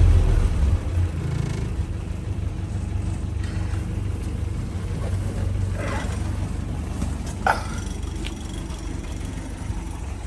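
Reconditioned 2.25-litre four-cylinder petrol engine of a 1979 Land Rover Series 3 Lightweight, warm, easing from a higher pitch in the first second into a steady idle, without the slight top-end rattle it has when cold. Two brief higher sounds cut in about six and seven and a half seconds in.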